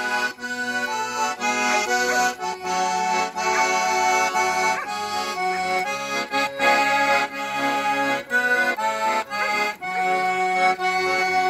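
Garmon (Russian button accordion) playing the instrumental introduction to a song: a melody over sustained chords and a bass line, with the notes changing in a steady rhythm.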